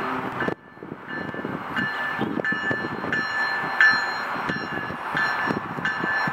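GO Transit commuter train running on the rails, a steady rolling rumble with uneven clacks. From a little under two seconds in, a ringing tone comes back in short spells about twice a second.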